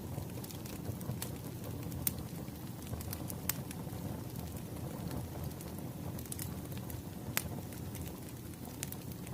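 Wood fire crackling: a steady low rumble of flames with scattered sharp pops from the burning firewood.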